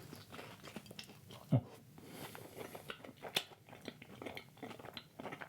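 Close-miked biting and chewing of a banana lumpia in a fried spring-roll wrapper, with many small crunches, a low knock about a second and a half in and a sharper crunch past the middle.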